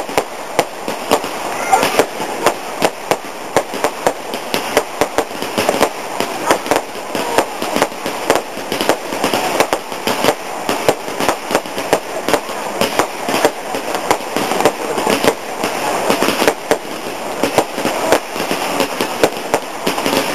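Fireworks going off continuously: a dense, irregular run of sharp bangs and crackles, several a second, over a steady background hiss.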